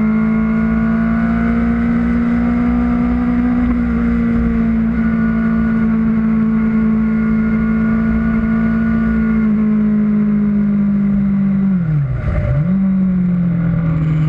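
Kawasaki Ninja ZX-6R's inline-four engine running at steady cruising revs, with wind noise over the microphone. About twelve seconds in, the revs drop sharply for a moment and pick back up, then settle slightly lower.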